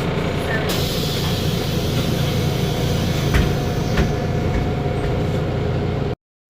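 Ford Ecotorq diesel engine of an Otokar Kent LF city bus running, with a steady low drone; a hiss joins in about a second in and two short knocks come around the middle. The sound cuts off abruptly near the end.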